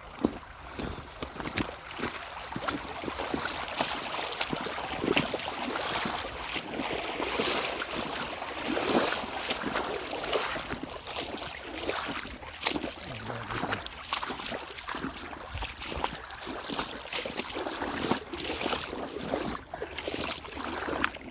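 Wading across a shallow creek: water splashing and sloshing around the legs in irregular bursts with each step.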